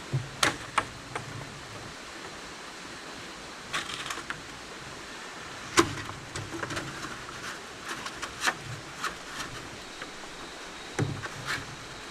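Scattered light knocks and clicks at irregular times, as of pieces of wood or bamboo being handled and set down, over a steady background hiss.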